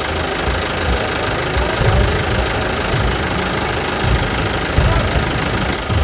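A vehicle engine running steadily with an uneven low rumble.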